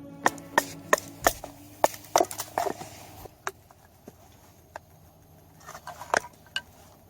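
Firewood being split by batoning a knife through it: a wooden baton strikes the back of the blade in a quick run of sharp knocks, about three a second, then fewer, fainter knocks with a short cluster about six seconds in.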